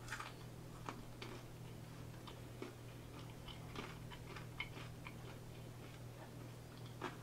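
Close-miked chewing: soft, irregular mouth clicks and small crunches, over a low steady hum.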